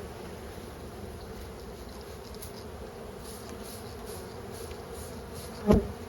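Honeybee swarm buzzing steadily, with one heavy thump near the end as the swarm is shaken down into a hive box.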